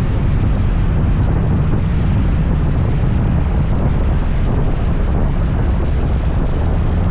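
Steady wind rumble on the microphone of a moving scooter, with the scooter's running and road noise underneath.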